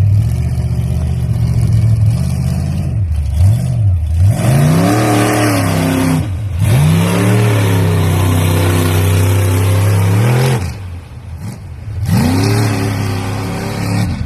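Monster truck's engine revving repeatedly. It runs low at first, blips twice, then climbs twice into long held revs. It drops back to a low idle and revs up again near the end.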